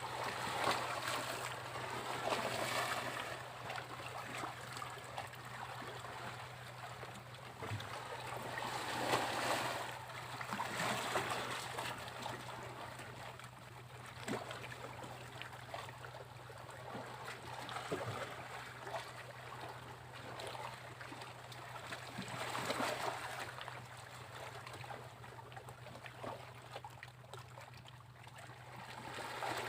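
Sea waves washing onto a beach, the surf rising and falling in surges a few seconds long. A steady low hum runs underneath.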